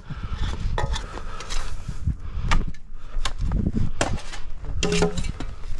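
Irregular knocks and clatter of wood and metal, typical of 2x4 form lumber and tools being handled.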